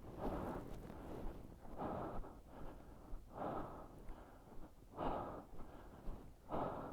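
A person breathing hard, a heavy breath about every second and a half, out of breath from running on foot.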